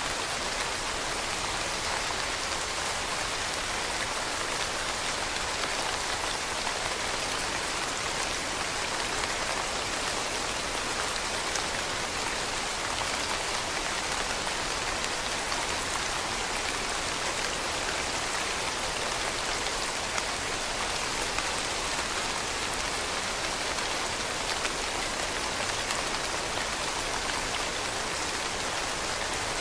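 Steady rain falling on leaves: a dense, even patter of many drops, with no change in strength.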